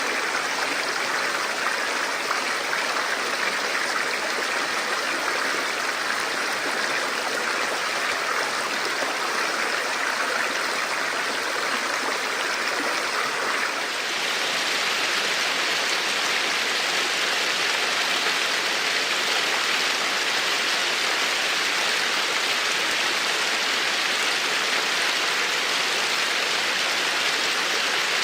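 Steady rush of running water. About halfway through it changes abruptly to a brighter, slightly louder rush.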